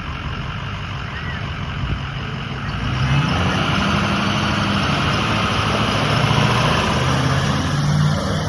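Truck engine running steadily with a low hum, growing louder about three seconds in.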